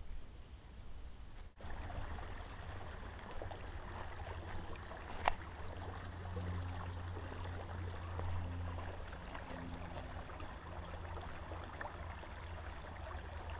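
Creek water running steadily, with a low rumble underneath and a single click about five seconds in.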